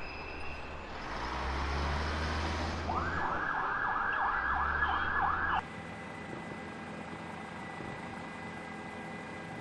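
An emergency vehicle siren in a fast yelp, sweeping up and down about three times a second over street traffic noise. It cuts off abruptly a little past halfway, leaving a steady low hum.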